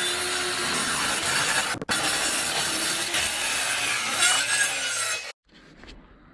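Power saw cutting plywood, a steady loud whine with one momentary break about two seconds in, cutting off suddenly about five seconds in.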